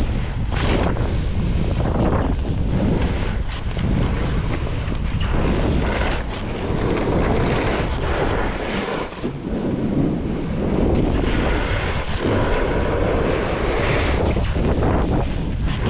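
Wind buffeting the microphone during a fast snowboard descent, a steady low rumble, with the board's edge hissing and scraping through the snow in swells every second or two as the rider turns.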